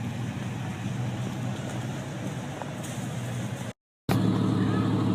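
Pickup truck engine running steadily in the snow. The sound cuts out briefly about three and a half seconds in, then comes back a little louder.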